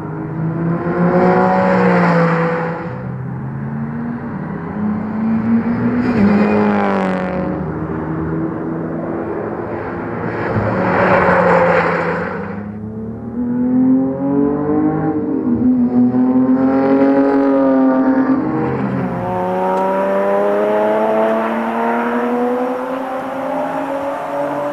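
A car engine driven hard on a race track, repeatedly climbing in pitch under acceleration and dropping back, with louder surges about four times. Near the end it pulls through one long steady rise in pitch.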